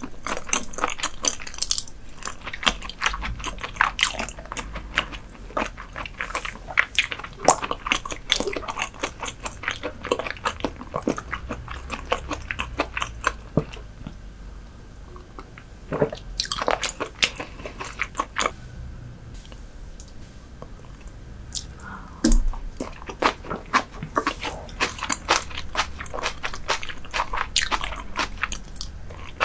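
Close-miked chewing and biting of raw herring, with many small, quick, crisp mouth clicks. A quieter stretch in the middle is broken by a few sharper clicks.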